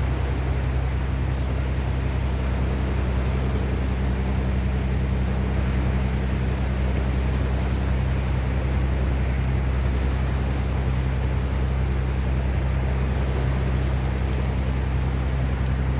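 Wind and sea waves washing steadily, over a constant low hum.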